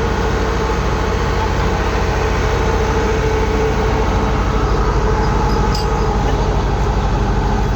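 Heavy farm diesel engine running steadily, a continuous low drone with mechanical clatter, with a brief faint click about six seconds in.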